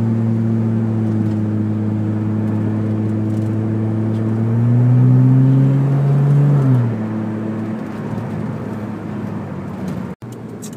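Engine of an old Volvo saloon running on LPG, heard from inside the cabin while driving: a steady humming note that climbs a little in pitch about five seconds in, then falls away near seven seconds and runs quieter. The sound cuts out for an instant near the end.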